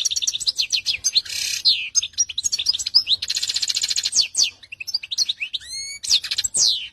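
Domestic canary singing a continuous song of rapid high trills and quick pitch sweeps, including a long fast trill near the middle.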